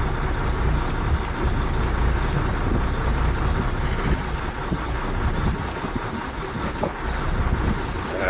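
2006 Volvo truck's diesel engine idling with a bad miss; the fault codes point to injector number 6. Some wind on the microphone.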